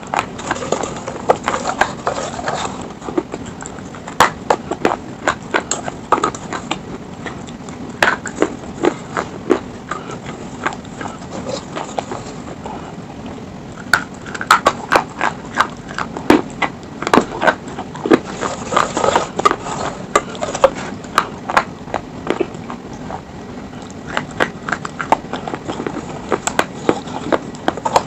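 Close-miked crunching and chewing of hard, brittle slate stone in the mouth: many sharp, crisp cracks in quick, irregular runs.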